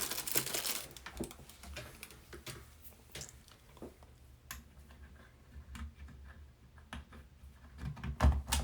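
Scattered light clicks and taps of handling while a fan's power cord is being plugged in, with a couple of louder knocks near the end.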